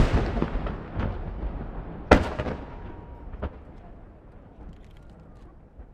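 Aerial firework shells bursting: a loud boom right at the start and another about two seconds in, with smaller bangs at about one and three and a half seconds. Each boom is followed by a rumbling echo and crackling that die away toward the end.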